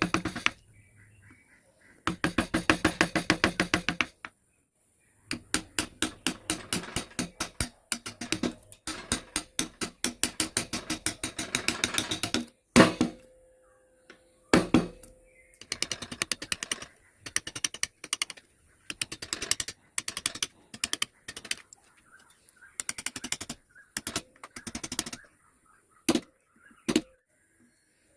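Carving tools tapping wood in fast runs of sharp taps, about eight a second, in bursts of one to two seconds. Two heavier knocks come near the middle, one of them briefly ringing.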